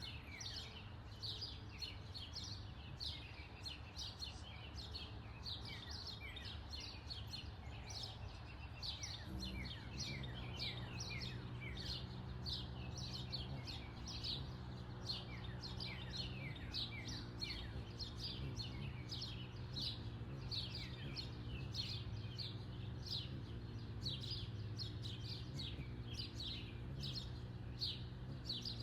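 Small backyard birds chirping over and over in quick, short falling notes. About ten seconds in, a low steady mechanical hum joins them and runs on underneath.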